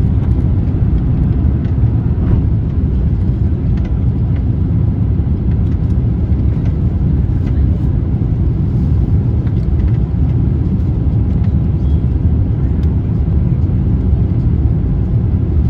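Airliner cabin noise heard from a window seat: a steady low rumble of the jet engines and airflow that holds level without rising or falling.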